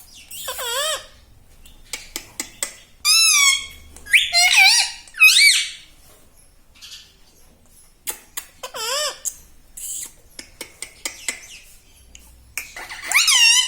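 Pet parrot making a series of short, warbling, whistle-like calls and squawks in bursts, with small clicks between them.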